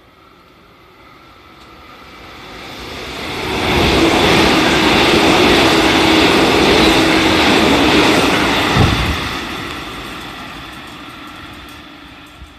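JR Central 313-series electric multiple unit passing through the station at speed without stopping: its noise builds over a few seconds, stays loud for about four seconds with a steady low hum, then fades away as the train recedes.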